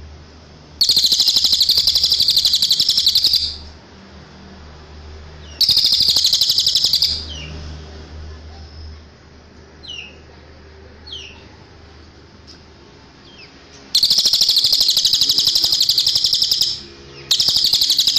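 Cililin songbird singing: four rapid, even trills of one to three seconds each, high-pitched. A few short down-slurred chirps come between the trills.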